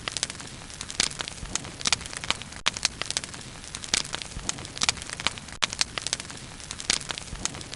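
Wood bonfire burning, with many sharp, irregular crackles and pops over a steady hiss.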